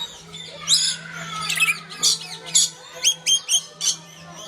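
Aviary birds squawking and chirping: short, sharp, high-pitched calls, coming faster in the second half, over a steady low hum.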